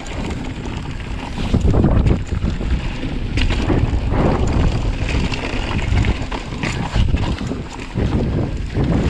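Wind buffeting the microphone of a camera on a downhill mountain bike at speed, a continuous rumble with scattered knocks and rattles from the bike running over rough trail.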